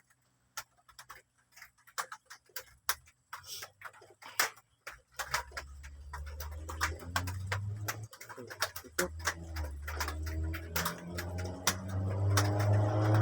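Rain dripping in irregular sharp ticks. About five seconds in, a low steady hum comes in and grows louder toward the end.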